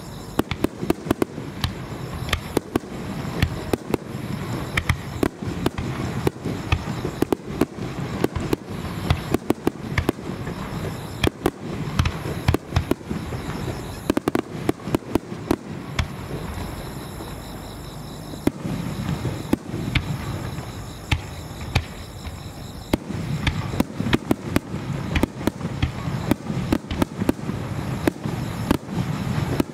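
Starmine fireworks: shells launching and bursting in rapid succession, a dense run of sharp bangs over a continuous low rumble, thinning briefly about halfway through before picking up again.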